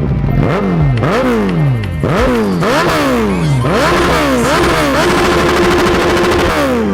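Suzuki Hayabusa inline-four with a loud aftermarket exhaust being revved in quick throttle blips, each rising sharply and falling back, about eight times. Near the end it is held at high revs for about a second and a half, then drops.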